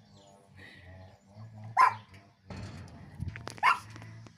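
A dog barking twice, two single sharp barks about two seconds apart.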